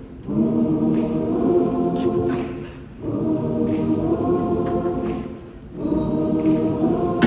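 Many voices singing sustained 'ooh' chords in harmony, unaccompanied: three long held chords with short breaks between them.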